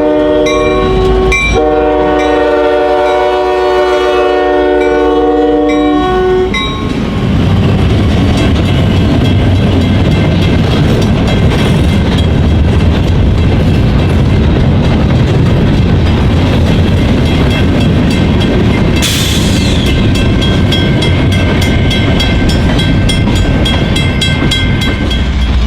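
Norfolk Southern diesel locomotive's multi-chime air horn sounding. A short blast ends just after the start, then a long blast of about five seconds. Then the freight train rumbles steadily as it rolls by.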